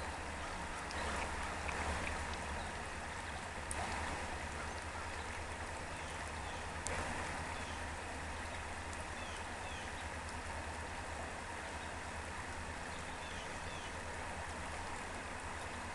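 A small stream running steadily over its bed, with a few faint, short bird chirps high above the water sound.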